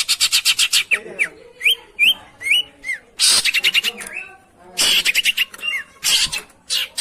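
Long-tailed shrike (pentet) song: a fast run of harsh ticking notes, then four short whistled upslurred notes, then harsh rasping bursts broken by more rapid chatter. This is the kind of song that is played to a silent pet shrike to set it singing.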